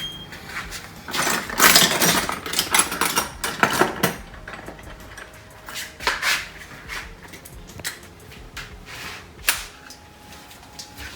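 Irregular plastic clicks and rattles from a bumper light and its wiring connector being unclipped and handled. The clicks come thickest in the first four seconds, then fall to scattered taps.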